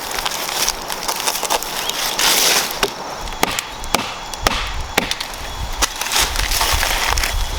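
Dry sticks and branches snapping and cracking: a run of sharp cracks, about two a second in the second half, over a low rumble near the end.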